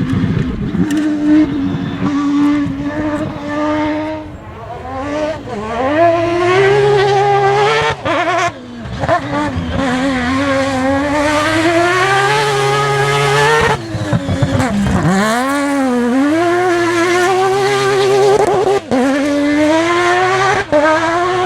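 Mazda rotary engine of the Proto 205 rally car at full throttle, its note climbing and falling sharply again and again through gear changes and lifts, with a deep drop and recovery about two-thirds of the way through. The sound breaks off abruptly a few times.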